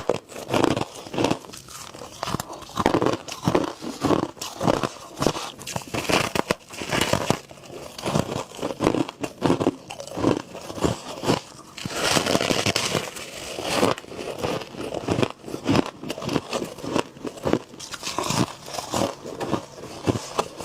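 A person biting and chewing crunchy freezer frost ("humidifier frost"): a steady run of crisp crunches, denser and longer a little past the middle.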